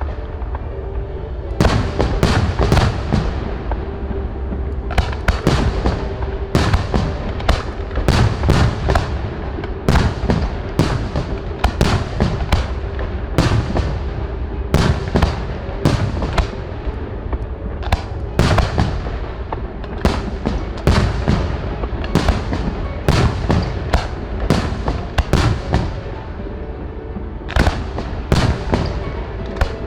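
Fireworks display: shells bursting in rapid, dense succession, sharp bangs and crackles following one another with hardly a pause.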